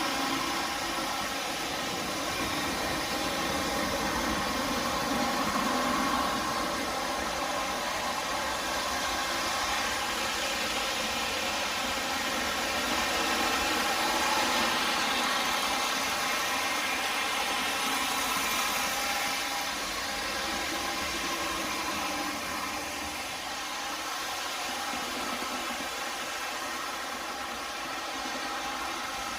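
MTH Premier O-scale diesel locomotives running around three-rail track, their onboard sound systems giving a steady diesel engine sound over the running noise of wheels on rail.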